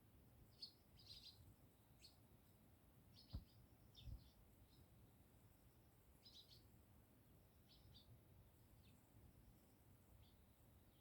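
Sparrows chirping faintly in short, scattered chirps, with two soft low thumps about three and four seconds in.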